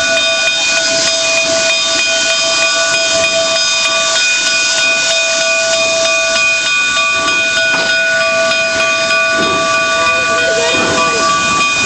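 A Durango & Silverton coal-fired steam locomotive standing at the station, venting steam in a loud, steady hiss with whistling tones in it. One tone drops out about halfway through.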